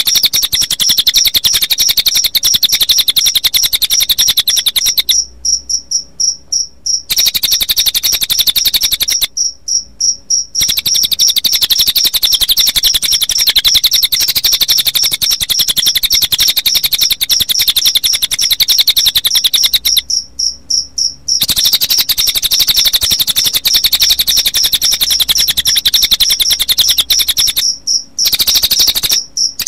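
Cililin bird calls mixed with cricket chirping, as a loud, dense, rapid high-pitched trill that stops briefly several times.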